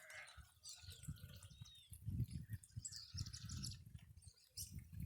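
Small birds chirping, with irregular low gusty rumbles of wind on the microphone.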